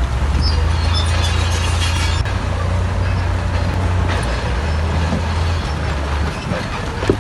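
Heavy diesel engine of earthmoving machinery running under load, its low drone stepping up and down in pitch a few times, with a sharp knock near the end.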